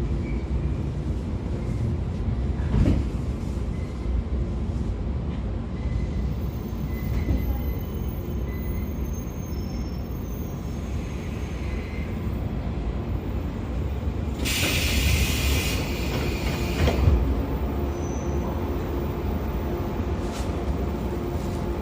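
Running noise of a 113 series 5700-number EMU heard on board: a steady low rumble of wheels and running gear, with a couple of short thumps and faint thin squealing tones. About fourteen seconds in comes a loud hiss lasting about a second and a half.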